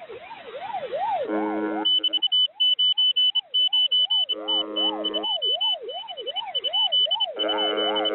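Siren and alarm sounds played over a shortwave radio channel, typical of a pirate transmission: a wailing tone sweeping up and down about twice a second, joined about two seconds in by rapid high-pitched beeping. A harsh buzzing chord cuts in three times, at about one, four and seven seconds in. The sound is thin and cut off at the top, as heard through a radio receiver.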